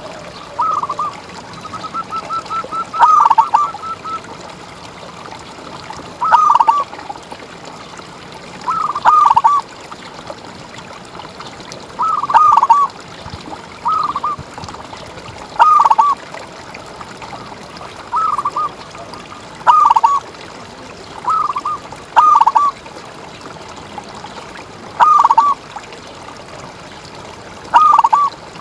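Zebra dove (perkutut) cooing: short phrases of a few quick, rolling notes repeated every two to three seconds, with a longer run of quick notes a few seconds in. A faint steady hiss runs underneath.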